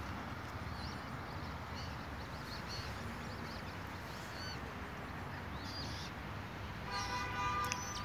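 Birds chirping in short, high notes every second or so over a steady low outdoor rumble. About seven seconds in, a louder honk-like call with several tones sounds for about a second.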